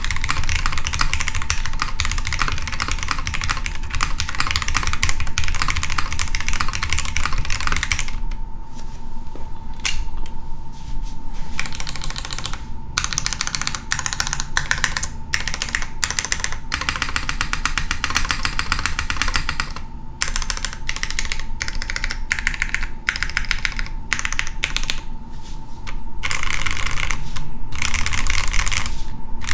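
Typing on a Tetrix 60 mechanical keyboard with a polycarbonate plate and no foam: fast runs of key clacks, broken by brief pauses about eight to twelve seconds in and again around twenty and twenty-five seconds in.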